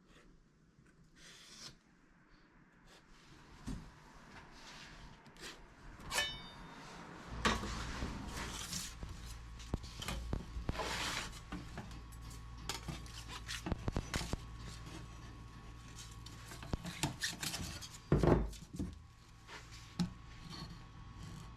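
Metal parts scraping and rubbing, with light clinks and knocks. A steady low hum joins about seven seconds in.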